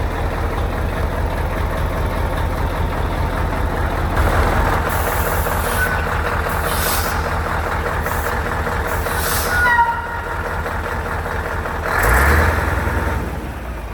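Scania truck's diesel engine idling steadily, with several short bursts of air hissing from its air brake system as it builds pressure to release the spring brakes, a few brief squeaks near the middle, and a louder whoosh of air about twelve seconds in.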